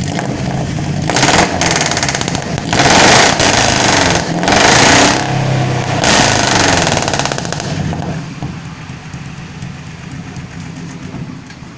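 Pickup truck engine revved through an aftermarket 'Spoon Big' muffler: about four sharp throttle blips in quick succession, each rising and falling, then settling back to a steady idle for the last few seconds.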